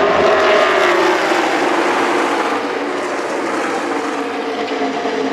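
A pack of NASCAR Cup Series V8 stock cars racing past in the draft, many engine notes overlapping and falling in pitch as they go by, then settling into a steady drone from the field.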